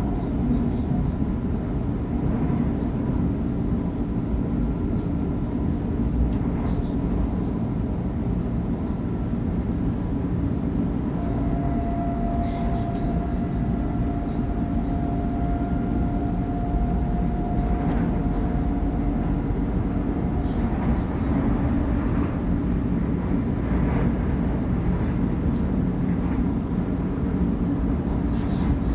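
Sydney Trains electric suburban train running at speed, heard from inside the carriage: a steady rumble of wheels on track with a steady hum. About eleven seconds in a higher whine comes in and holds for several seconds before fading.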